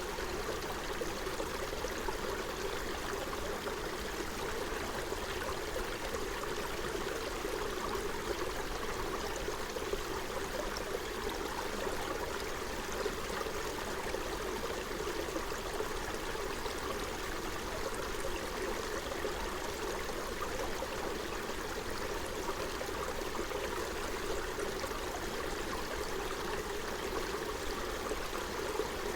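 Forest stream running steadily over its bed, an even rush and trickle of water.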